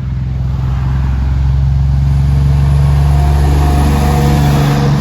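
Peterbilt semi truck's diesel engine pulling up a hill, a steady low engine note that grows louder over the first few seconds as the truck approaches.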